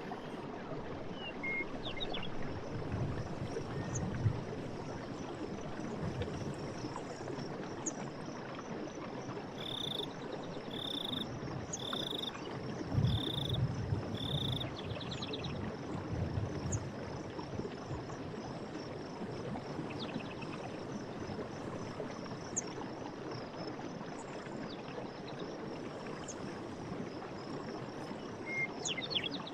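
Night forest ambience: a steady high insect hiss over an even rushing background, with a frog giving five short, evenly spaced calls about a second apart midway through.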